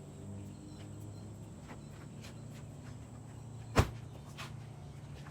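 Faint footsteps and small handling clicks over a low steady hum while tires are being loaded into a car, with one sharp knock a little under four seconds in.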